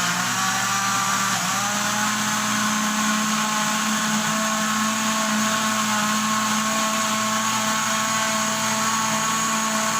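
Kitchen blender running steadily, blending watermelon into juice; its motor pitch rises a little in the first couple of seconds, then holds steady.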